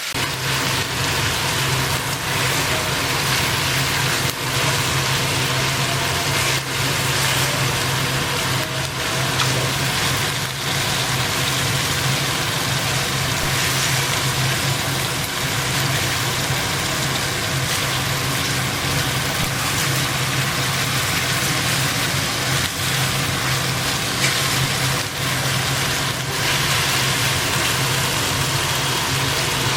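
Oil sizzling steadily as chicken fries in a pan, under a steady low motor hum that starts right at the beginning.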